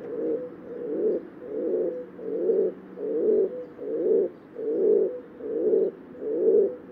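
A bird's low call repeated in a steady series, about three notes every two seconds.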